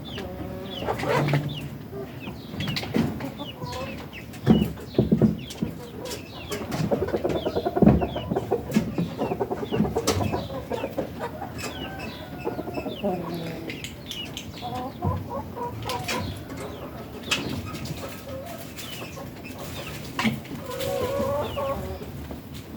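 Domestic chickens clucking on and off, a string of short calls with scattered sharp clicks and knocks between them.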